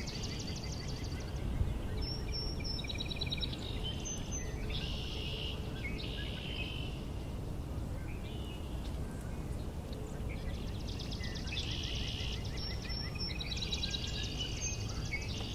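Several songbirds singing in a marsh, with trilled and buzzy songs coming every few seconds and the busiest stretch near the end, over a steady low background rumble.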